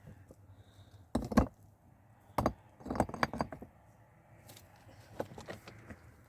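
A series of sharp knocks and clatters, as of hard objects being handled: a loud cluster about a second in, another around two and a half to three and a half seconds in, and lighter knocks near the end.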